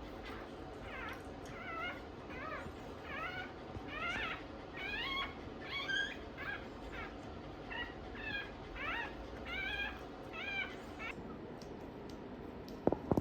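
Newborn Shiba Inu puppy crying: a string of short, high, squeaky cries that rise and fall in pitch, about one and a half a second, stopping about two seconds before the end. A couple of sharp clicks near the end.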